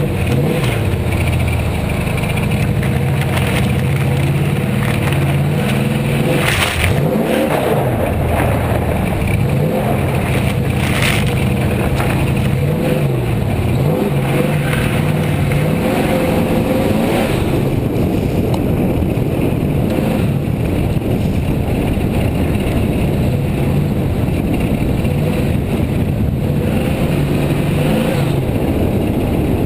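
Lincoln Town Car's V8 engine running under way, its pitch rising and falling several times as the throttle is opened and eased off.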